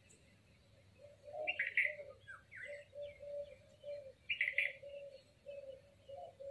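Birds calling: a string of short, low cooing notes repeating from about a second in, with two louder bursts of higher chirping.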